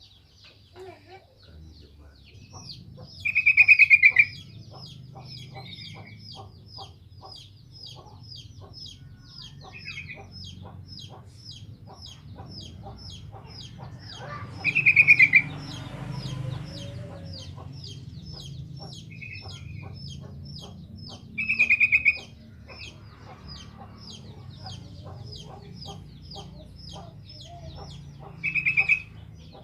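Sooty-headed bulbul (trucukan) singing, with four loud short bubbly phrases spaced about six to seven seconds apart. Beneath them runs a steady series of high chirps, about two a second, over a low hum.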